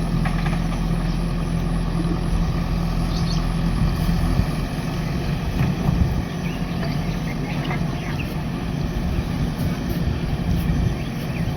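Heavy diesel engine of construction machinery running steadily with a low, even hum.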